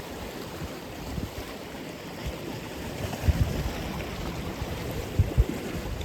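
Atlantic Ocean surf: a steady rush of breaking and washing waves, with a few brief low thumps about halfway through and again near the end.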